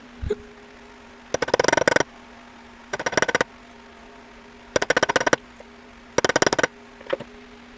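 A hole punch cutting bolt holes in paper gasket material: four short bursts of rapid clicking, each about half a second long, over a steady low hum.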